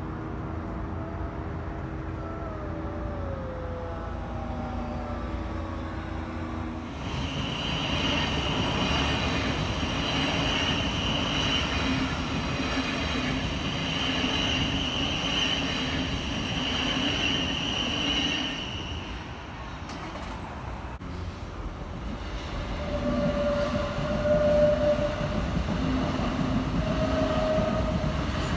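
Electric multiple-unit trains passing over a level crossing. A Thameslink Class 700 runs by with a steady high whine over the rumble of the wheels. Then a pair of Southeastern Class 376 units pass with a motor hum that rises slightly in pitch.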